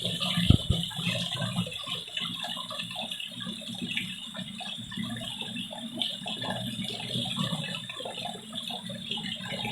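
Spring water trickling and splashing from a leaf spout into a jerrycan as it fills, with a single knock about half a second in.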